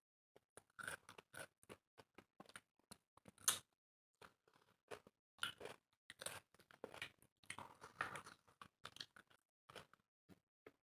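Close-up chewing and mouth sounds of two people eating dry roti and chicken curry by hand: irregular clicks and crunches, with one louder crunch about three and a half seconds in.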